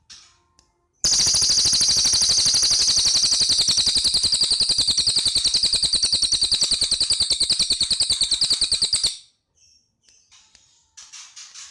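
Cililin songbird singing a loud, very rapid rattling trill, evenly pulsed and held for about eight seconds, starting about a second in; softer short high chirps follow near the end.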